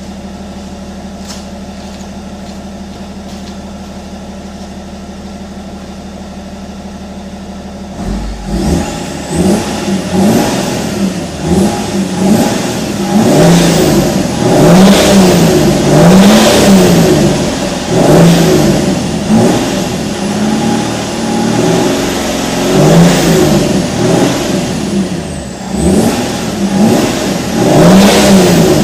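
BMW E46 330d's M57 straight-six turbodiesel, breathing through a Bastuck rear silencer with the catalytic converter and middle silencer removed. It idles steadily, then from about eight seconds in it is revved up and down over and over, roughly a dozen times.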